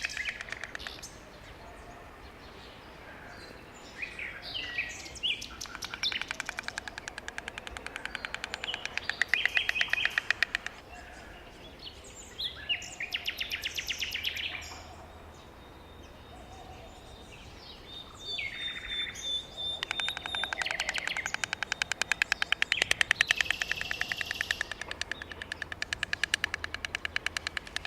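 White stork clattering its bill: several bouts of rapid, rhythmic wooden clacking, the longest and loudest in the second half. Other small birds chirp in the background.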